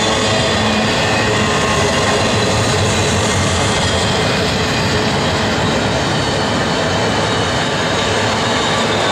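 Freight train of double-stack container well cars and autorack cars rolling past close by at speed: a steady, loud rumble and rattle of steel wheels on the rails.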